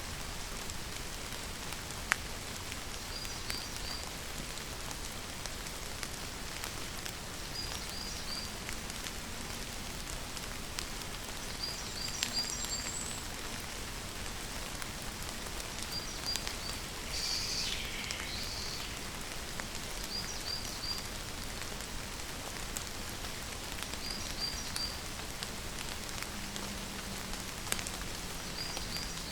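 Steady rain falling, with occasional sharp drip clicks. A faint, high, three-note call repeats about every four seconds.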